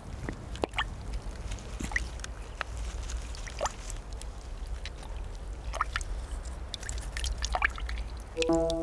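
Water dripping and plopping in a pond: a string of separate drops and small splashes, some with a quick bubbly rise in pitch, over a steady low rumble. Music comes in just before the end.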